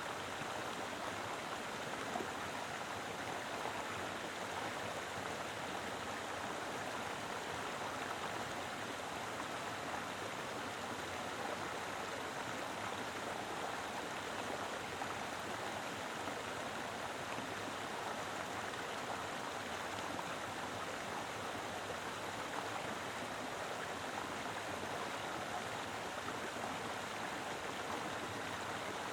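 Mountain river flowing, a steady rushing of water over rocks with no break or change.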